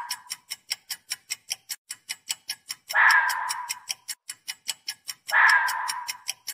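Red fox calling: harsh, rasping calls about a second long, one fading out at the start and two more about two and a half seconds apart. Under them a countdown clock ticks steadily, about four ticks a second.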